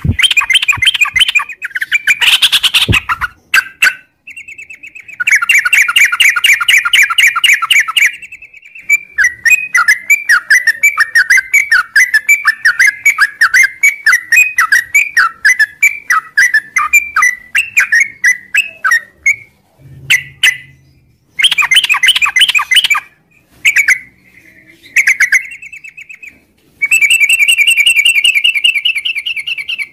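Yellow-vented bulbul (trucuk) singing in long, rapid chattering phrases, with short pauses between them and one longer run of quick separate notes in the middle.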